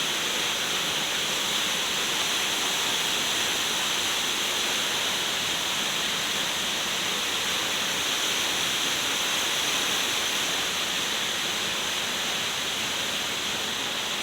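Steady rushing of a waterfall and river.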